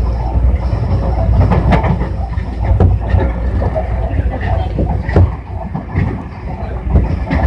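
Tobu 60000 series electric train running, heard from inside the car: a steady low rumble of wheels on rail with frequent irregular clicks and knocks from the track.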